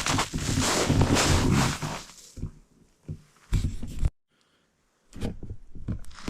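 Loud rustling and rumbling handling noise for about two seconds, then scattered knocks and clicks, with the sound cutting out for about a second in the middle.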